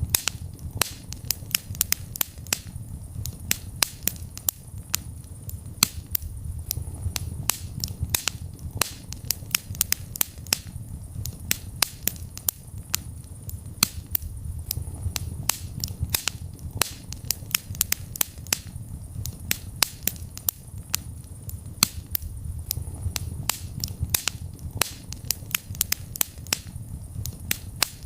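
Wood fire burning in a fireplace: frequent sharp pops and crackles, several a second, over a low rumble of flame that swells and fades every few seconds.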